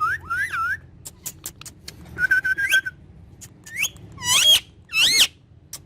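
Pet parrot whistling: three quick rising-and-falling whistles, a held whistle about two seconds in ending in an upward flick, then two loud swooping whistles near the end. Scattered sharp clicks fall between the whistles.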